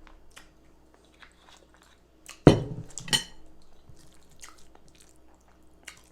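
Eating at a table: cutlery clicking against a plate, with chewing. About halfway through come a loud knock and then a bright clink.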